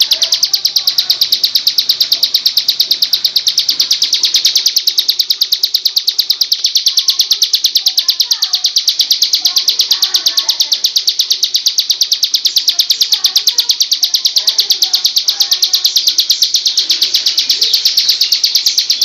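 Plain prinia (ciblek sawah) giving its loud, long buzzing 'ngebrem' trill: a high, rapid, evenly pulsed call held without a break.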